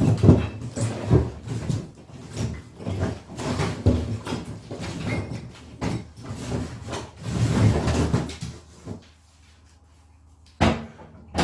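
Split firewood being handled and stacked in a wood stove's firebox: a run of irregular wooden knocks and clatter against the stove's steel, going quiet about nine seconds in, then two sharp knocks near the end.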